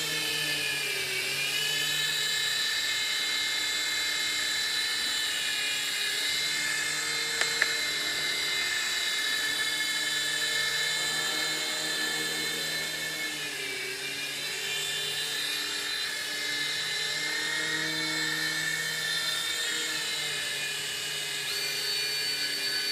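Electric motors and rotors of an F-415 remote-control toy helicopter in flight, a steady high-pitched whine. The pitch dips briefly and recovers about a second in and again about midway as the throttle changes, and there is one brief click around a third of the way through.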